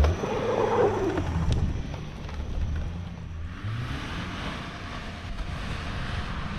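Car engine running under load as the car pushes through deep fresh snow. From about three and a half seconds in, a broad hiss of snow against the car joins the engine.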